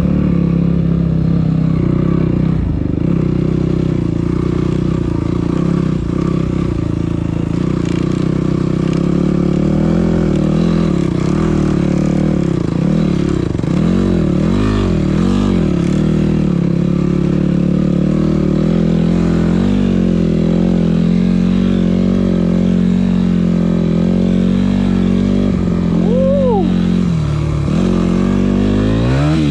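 Yamaha WR250F's single-cylinder four-stroke engine running steadily under load. The revs rise and fall several times around the middle, with a quick sharp rev up and back down near the end.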